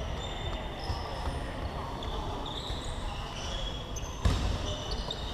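Basketball bouncing on a gym floor during play, with short, high squeaks of sneakers on the court. The loudest thud comes about four seconds in.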